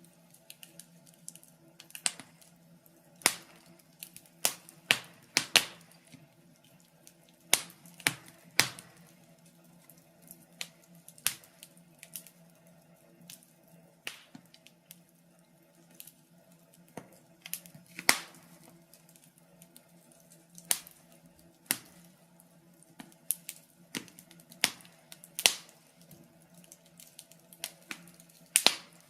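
Wood fire crackling in a fireplace: sharp, irregular pops and snaps, one or two a second, over a faint steady hum.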